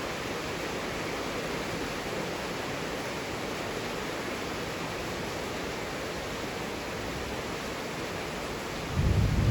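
Heavy rain falling in a steady, even hiss. Near the end a low rumble of thunder breaks in and the level jumps.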